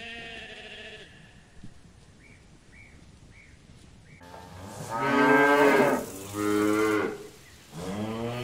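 Cows mooing: three long, loud moos, the first coming about five seconds in, the last running on past the end. Before them, right at the start, a fainter single sheep bleat.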